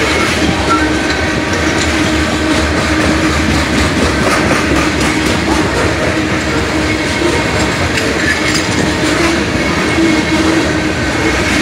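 Freight train of covered hopper cars rolling past, the steel wheels on the rails making a steady, unbroken rumble.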